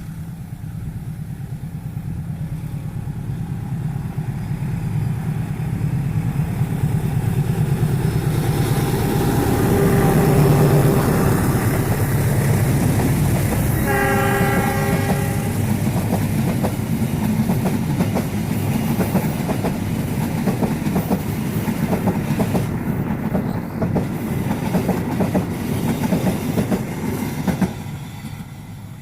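KAI CC201 diesel locomotive passing, its engine rumble building to a peak, then one horn blast of about a second and a half. The carriages follow with wheels clattering over the rail joints, until the sound cuts off shortly before the end.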